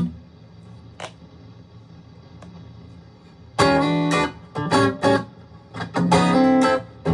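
Aria STG-series electric guitar strumming chords: after a pause with one light pluck, a run of short strummed chords comes in about halfway through.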